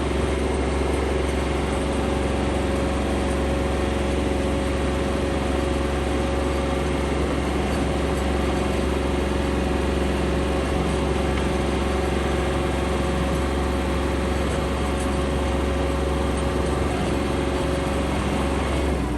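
Kioti NX4510 tractor's diesel engine running steadily, at a constant pitch with a strong low hum.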